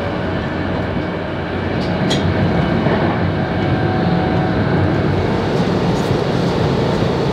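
Class 390 Pendolino electric train running at speed, heard from inside the carriage: a steady rumble of wheels on the track with a faint whine over it.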